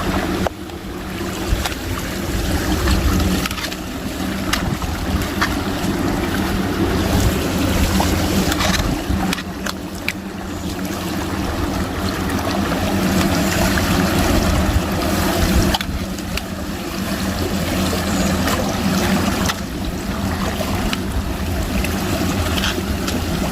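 Hailstorm: a steady rush of falling hail and rain, with a low wind rumble and a few scattered sharp ticks of hailstones striking.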